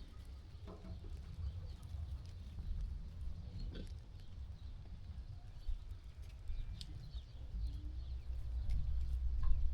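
A sheep flock moving and grazing, with scattered short clicks and shuffles of hooves on the ground and a few faint bird chirps. A low rumble runs underneath and grows louder near the end.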